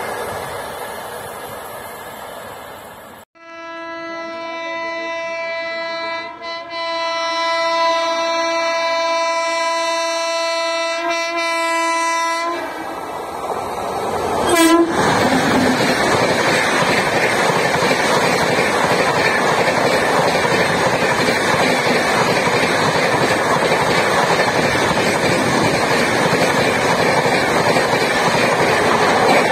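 An Indian Railways electric locomotive's horn in one long blast of about nine seconds, with two short breaks. Then a Shatabdi Express passes at high speed, a loud steady rush of wheels and coaches with clickety-clack over the rail joints. At the start, the noise of an earlier train fades away.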